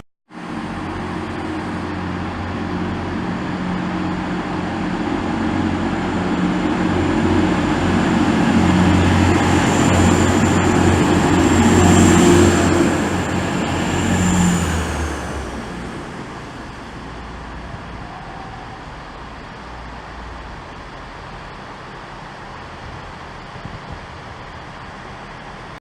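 Train passing through a station: its engine and wheel noise build to a peak about twelve seconds in, then fade away. A high whine drops in pitch as it goes by.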